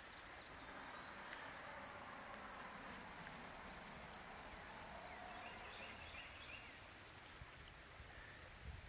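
Insects trilling in a continuous, steady high-pitched chorus, with a few faint chirps in the middle.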